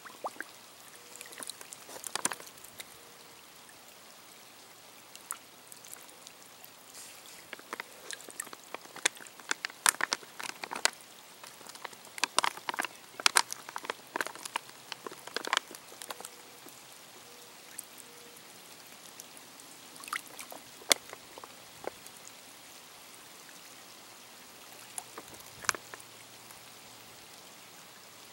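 Water splashing and trickling in irregular bursts as a Sawyer Squeeze filter's dirty-water pouch is filled from a reservoir, busiest in the middle, over a steady hiss of light rain.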